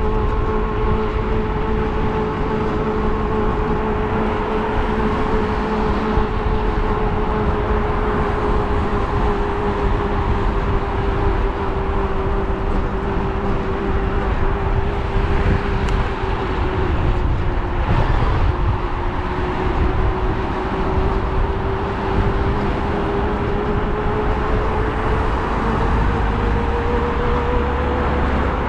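Electric bike motor whining steadily under power, its pitch sagging a little past the middle and climbing near the end as the speed changes, over a steady low wind rumble and road noise.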